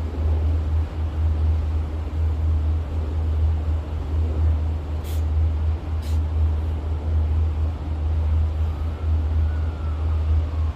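A steady, deep low rumble, with two faint clicks about five and six seconds in.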